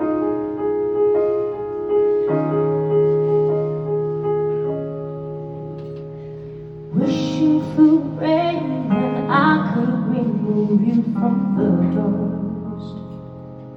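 Song intro played live on piano or electric piano in slow, sustained chords. About seven seconds in, it swells into a fuller passage with a wavering melody line.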